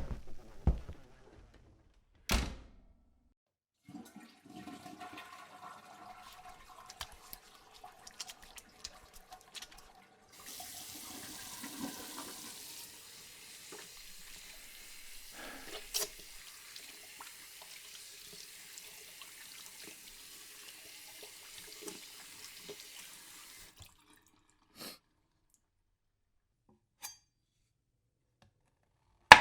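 Water running steadily, like a tap or sink, for about thirteen seconds before it is shut off abruptly. Scattered knocks and clattering come before it and a few single knocks after.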